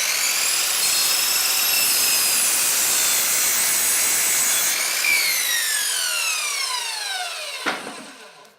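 Cheap Harbor Freight electric power saw running at full speed and cutting a block off a piece of wood. About five seconds in the trigger is released and the motor winds down with a falling whine, and a knock comes near the end.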